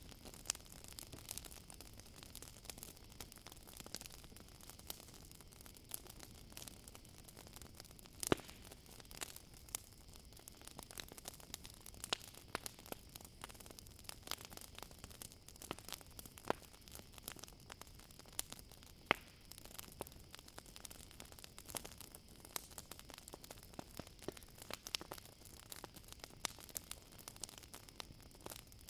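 Campfire crackling: irregular sharp pops and snaps over a soft hiss, with two louder pops about 8 and 19 seconds in. A steady high chirring of crickets runs underneath.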